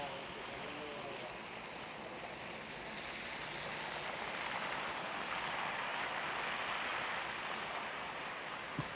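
City street noise: a steady hiss of traffic. It swells about four seconds in as a vehicle's tyres pass on the wet, slushy street, then fades near the end.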